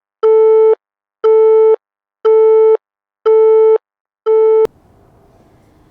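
Telephone busy tone after the caller hangs up: a steady beep about half a second long, repeated about once a second, five times. The last beep is cut short with a click about four and a half seconds in, leaving faint hiss.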